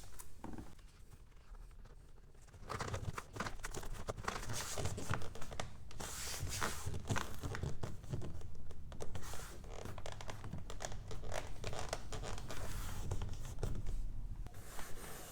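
Irregular rustling, crinkling and scratching of material being handled, with small clicks. It starts about two and a half seconds in.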